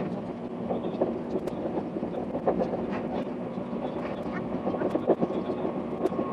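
Running noise of a limited express train heard from on board, sped up six times: a dense, rapid clatter of wheels on rails over a steady rumble.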